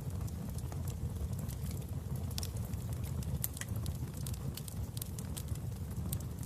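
Wood fire burning in a fireplace: a steady low rumble of flames with irregular sharp crackles and pops, the loudest about two and a half and three and a half seconds in.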